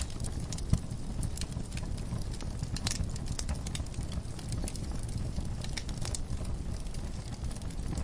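Wood fire burning in a fireplace: a steady low rumble of flames with frequent sharp pops and crackles at irregular intervals.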